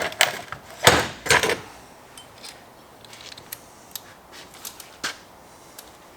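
Small metal chainsaw muffler parts and hand tools knocking and clicking as the muffler is taken apart, a few sharper knocks early on followed by lighter scattered clicks.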